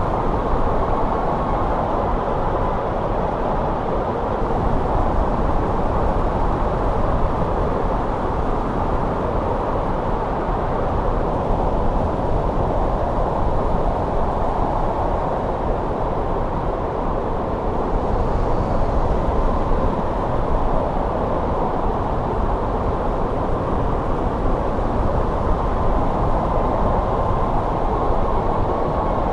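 Steady winter snowstorm wind blowing, a dense rushing noise that swells a little now and then, with a faint whistle coming and going over it.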